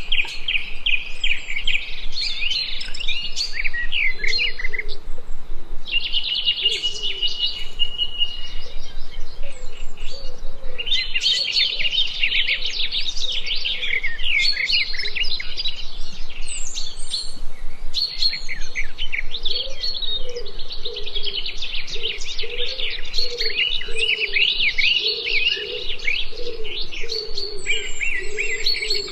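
Several songbirds singing together in a forest chorus, with dense overlapping high chirps and trills. A lower repeated call joins underneath, most steadily in the second half.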